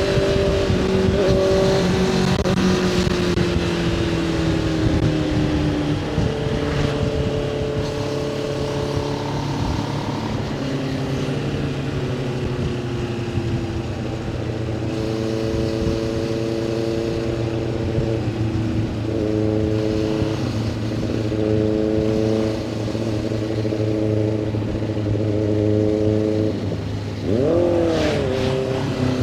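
Motorcycle engine running at road speed, its pitch stepping up and down as it changes gear, over steady wind rush. Near the end the pitch rises sharply and falls again in a quick rev.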